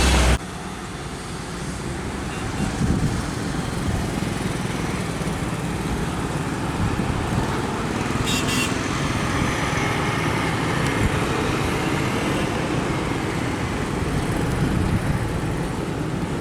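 Road traffic noise: a steady rumble of vehicles and trucks passing on the road, with a brief high-pitched sound about eight seconds in.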